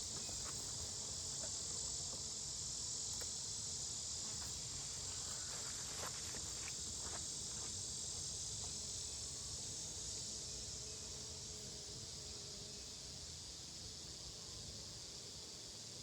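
A steady, high-pitched insect chorus with a faint hum of bees from the open hive, and a few light clicks and knocks of hive frames being handled.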